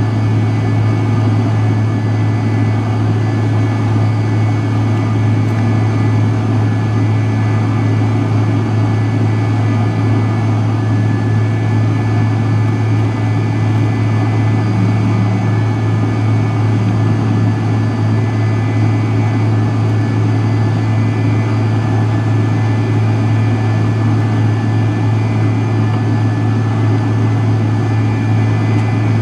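Cabin noise of a McDonnell Douglas MD-83 heard from a rear seat close to its tail-mounted Pratt & Whitney JT8D turbofans: a loud, steady low drone with a constant high whine over it, unchanging throughout.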